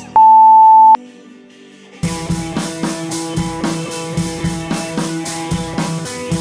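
An interval timer's long, higher beep of just under a second, the final beep of a countdown marking the switch to the next interval. About a second later, upbeat music with a steady drum beat starts and runs on.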